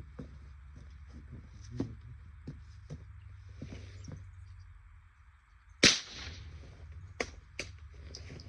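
A single gunshot about six seconds in, with a short tail after it, followed by two sharp clicks. Faint clicks and rustles throughout.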